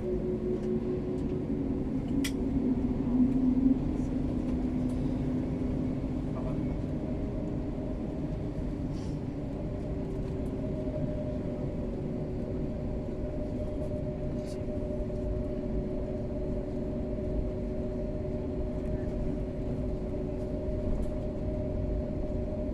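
Cabin noise inside an Airbus A330 with its Rolls-Royce Trent 700 engines running: a steady low rumble with a few held hum tones, swelling briefly a few seconds in.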